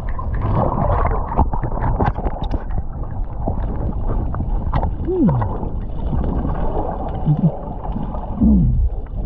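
Water splashing and sloshing around people swimming, with wind buffeting the microphone, and a couple of short falling vocal sounds near the middle and end.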